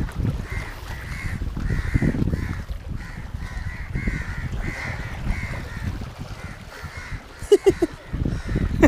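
A bird calling over and over in a quick series of short calls, about two a second, over low wind noise on the microphone.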